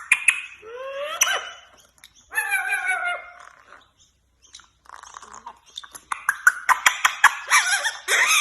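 A pet parrot vocalising: pitched whistles and squawks that glide up and down, then, after a short pause about halfway through, a rapid run of clicks and chatter.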